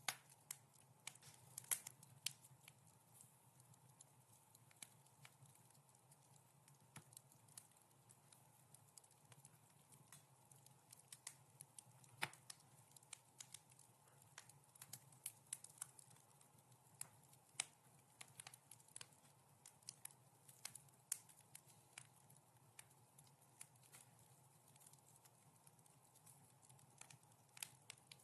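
Wood fire in a fireplace crackling softly: irregular sharp pops and snaps, several a second at times, over a faint steady background.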